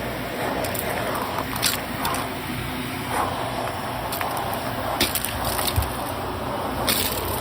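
Vacuum cleaner running and sucking up a test mess of loose debris, with irregular crackling and rattling as the bits are pulled in.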